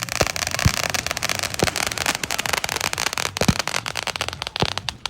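Fireworks going off: a dense, rapid crackle of many small pops, with a few heavier booms mixed in.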